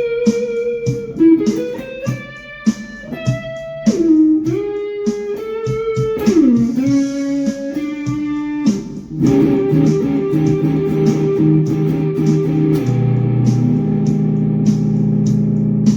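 Guitar playing a single-note melody with sliding, bending notes, then settling into held, ringing chords about nine seconds in.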